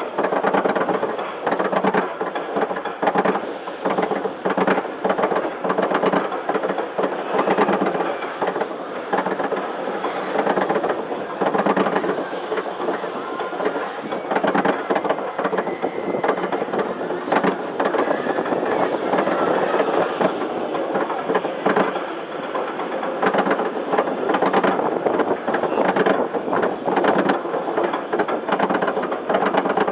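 Arrow looper steel roller coaster train running along its track, with a continuous dense rattle and clatter of wheels on the rails.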